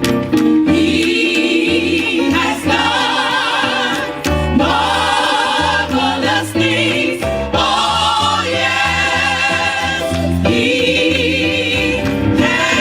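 Gospel choir singing with instrumental backing, full voices with vibrato over a steady bass line.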